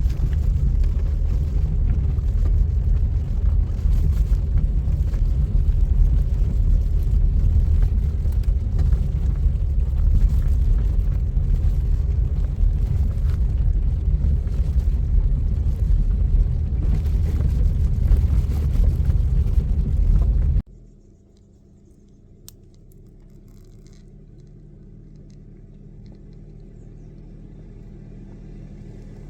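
A car's low, steady rumble while driving. About two-thirds of the way through it cuts off abruptly, giving way to a much quieter low hum that slowly grows louder.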